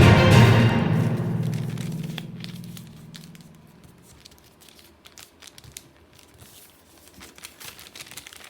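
Background music fading out over the first three seconds, then faint crinkling and scattered small clicks of craft materials being handled.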